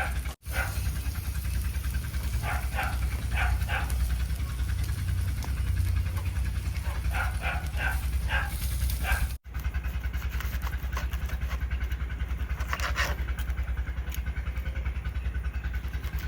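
A dog vocalising in short clusters of brief, pitched sounds, a few at a time, over a steady low rumble.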